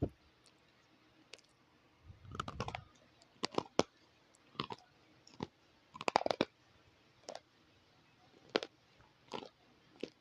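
Brittle pieces of black and white slate being bitten and crunched, in sharp separate cracks about a second apart, with a denser run of crunching about two seconds in and again around six seconds.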